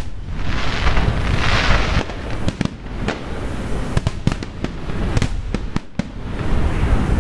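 Fireworks display: a rapid series of sharp bangs from aerial shells bursting, coming thickest from about two and a half seconds in. A hissing rush comes about one to two seconds in, over a steady low rumble.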